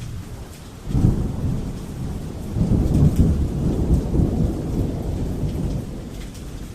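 Thunder rumbling over steady rain: a low rumble breaks in suddenly about a second in, swells again around three seconds, and dies away toward the end while the rain hiss goes on.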